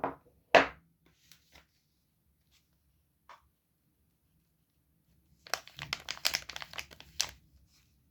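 Soap wrapper being handled and torn open: two sharp crinkles at the start, the second the loudest, then a run of rapid crinkling and tearing from about five and a half to seven seconds in.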